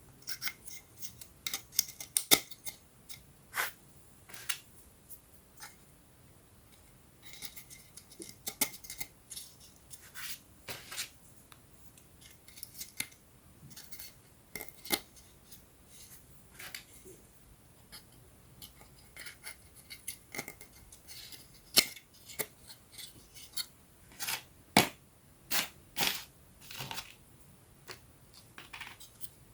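Thin wooden 3D puzzle pieces being handled and fitted together: many irregular sharp clicks and small snaps, some in quick clusters, a few louder ones.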